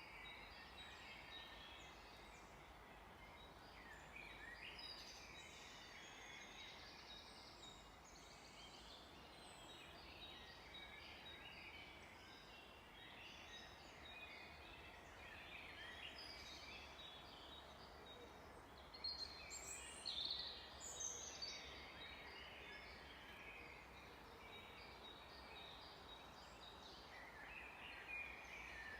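Faint chorus of several songbirds chirping and trilling over a steady background hiss, with a louder burst of calls about two-thirds of the way through.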